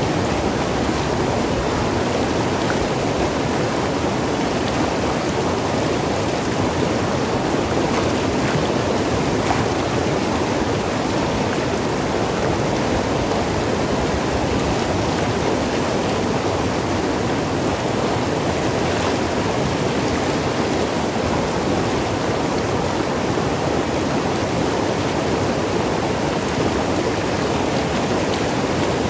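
Mountain river flowing and gurgling over rocks, a steady rushing of water with an even level.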